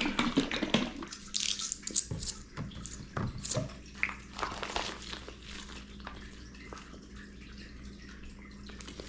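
Teriyaki sauce being poured from a bottle onto a piece of salmon, with irregular drips and small splashes that thin out after about four seconds.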